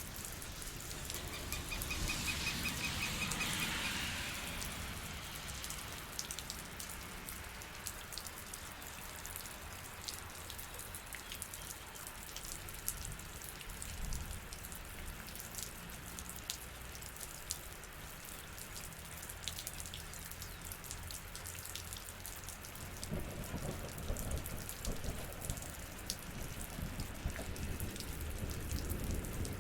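Rain falling, many separate drops ticking on surfaces over a steady hiss, swelling louder twice. A brief rapid high trill sounds about two seconds in and again at the end.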